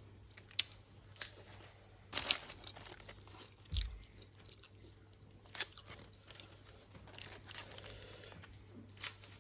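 Close-miked eating of a crispy fried-chicken zinger burger: irregular bites and chewing with about half a dozen sharp crunches.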